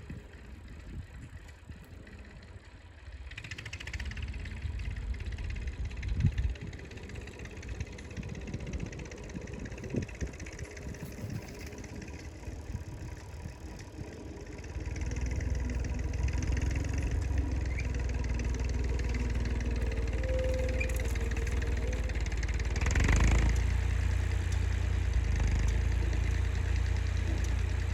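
1978 Massey Ferguson 50X tractor engine running steadily, quiet at first with scattered knocks, then louder and steady from about halfway, with a brief surge near the end.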